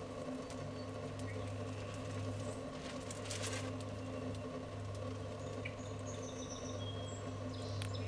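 Faint, high bird chirps and short twitters scattered through, with a brief scratchy rustle about three seconds in. Under them runs a steady low hum.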